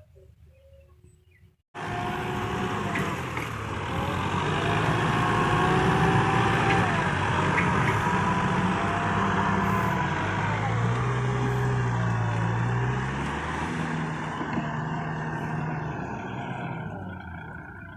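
Tractor engine working hard, its pitch rising and falling as it revs. It cuts in suddenly about two seconds in, after a faint start.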